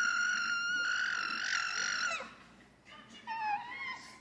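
Baby's long, high-pitched squeal held at a nearly steady pitch, stopping about two seconds in, followed about a second later by a shorter, lower squeaky vocal sound.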